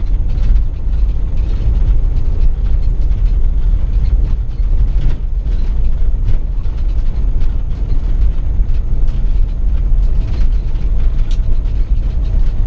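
Steady low road rumble inside a moving motorhome's cab, with frequent small clicks and rattles from the fittings as it drives along the lane.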